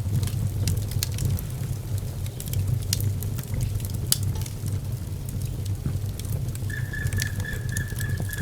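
Wood fire in a fireplace crackling, with scattered sharp pops over a low steady rumble. Near the end a thin high whistle holds for about a second and a half.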